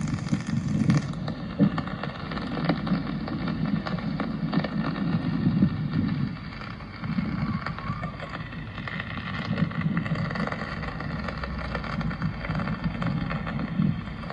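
Rain falling on a city street: an even hiss with many small scattered ticks over an irregular low rumble.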